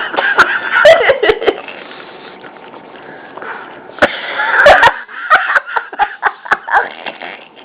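Small dogs licking and smacking at sticky peanut butter: wet, clicking mouth and tongue sounds with sniffing, in two busy spells, about the first second and a half and again from about four seconds in until near the end.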